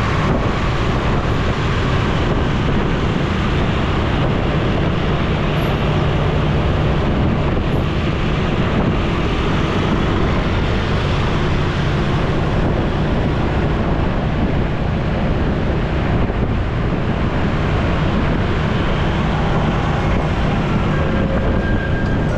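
Motorcycle riding in traffic: a steady engine hum under wind rushing over the microphone.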